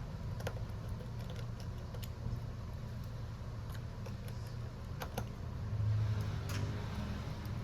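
A few light clicks and taps from small tools and phone parts being handled during a smartphone screen replacement, over a steady low hum.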